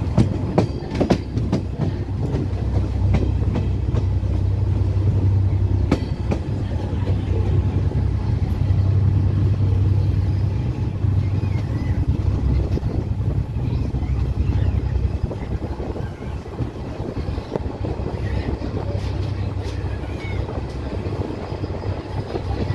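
Passenger train running along the line, heard from an open coach window: a steady low rumble of the wheels on the rails, with sharp clacks as the wheels cross rail joints and points, bunched in the first second and again about six seconds in.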